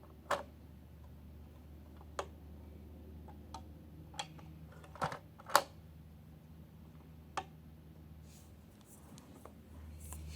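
Scattered sharp knocks and clicks of hard plastic, a second or two apart, as a toy dump truck and its blocks are handled and bumped. The loudest is a pair of knocks about five seconds in.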